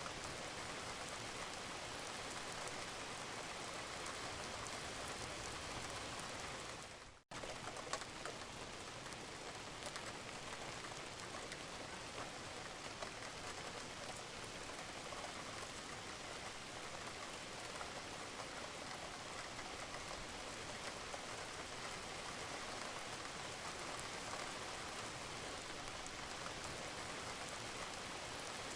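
Steady rain falling on a roof, with a few sharper drips standing out. About seven seconds in the sound fades out for a split second and comes straight back.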